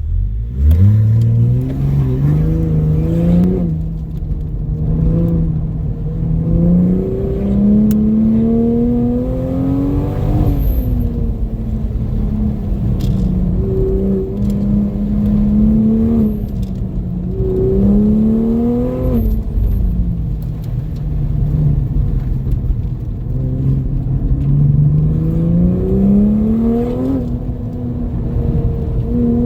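2020 Toyota Supra's turbocharged engine launching hard and then accelerating and easing off again and again, its pitch climbing under throttle and dropping on each lift-off, about three long pulls after the launch.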